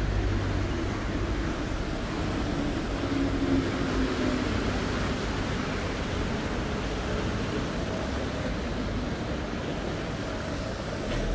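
Chongqing light-rail monorail train running past, a steady rush of running noise with a faint hum a few seconds in.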